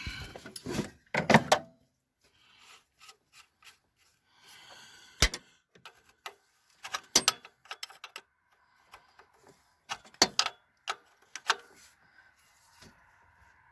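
Scattered sharp clicks and knocks of parts and tools being handled during engine work, with quiet gaps between them and a louder clunk just over a second in.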